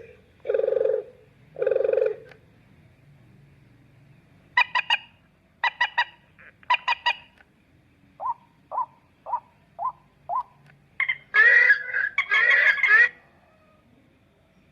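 Recorded game-bird calls played through a small homemade bird-caller speaker, stepping through different calls: two low honking notes, then three groups of quick triple calls, five short notes in a row, and two loud, harsh calls near the end.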